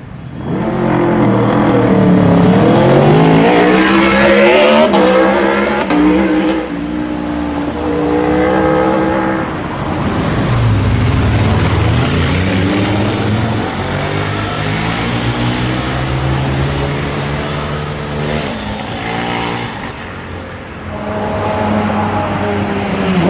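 Sport motorcycle engines accelerating past one after another, the engine note sweeping down and up again several times as each bike revs through its gears.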